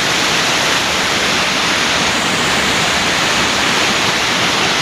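A small waterfall rushing steadily, with an even, loud hiss of falling water.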